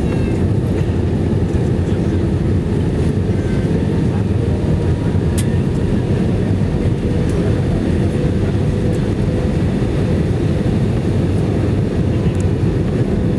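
Steady in-cabin noise of an Airbus A319-115 in flight on its descent toward landing: the even rumble of its engines and airflow, with a faint steady hum above it.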